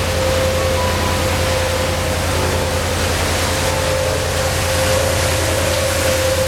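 Boat engine running steadily with an even low throb, under a constant rush of water and wind noise.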